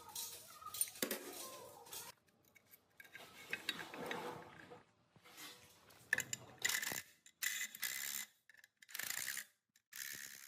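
Metal scraping and clanking in a series of short bursts, each a second or less, with brief pauses between.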